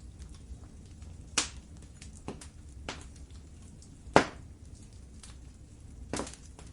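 Wood fire crackling in a fireplace: scattered sharp pops and snaps, the loudest about four seconds in, over a low steady rumble of the flames.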